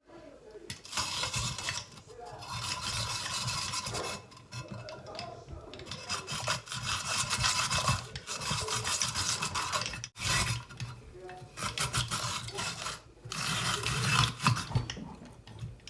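Saladmaster hand-cranked vegetable grinder shredding vegetables: a rasping, grating sound in runs of a few seconds, broken by short pauses.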